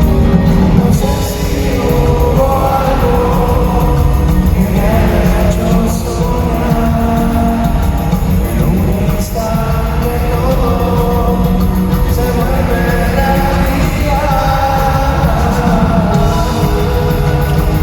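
Rock band playing with a singer's voice over drums, bass and guitars, loud and unbroken.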